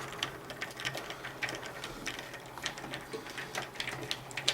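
A screwdriver driving a screw into the optical drive's mounting in a metal PC case: small irregular clicks and metallic ticks, several a second, as the screw is turned.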